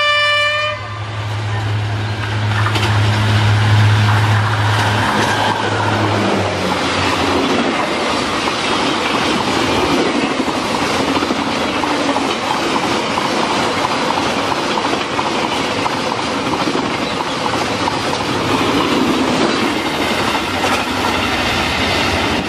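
A passenger train's horn finishes sounding about a second in, then long passenger trains rumble past at speed, their wheels clattering over the rail joints.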